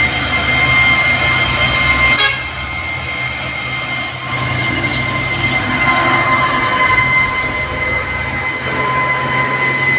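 Heavy diesel trucks climbing a steep grade under load, engines running low and steady with a constant high-pitched whine over them. The sound drops a little about two seconds in.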